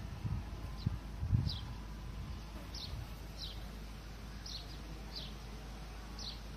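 A small bird chirping over and over: short, high, falling notes about once a second. A few low bumps near the start.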